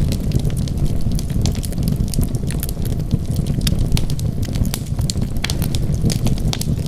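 Wood fire burning in a fireplace: a steady low rumble with sharp crackles and pops, several a second.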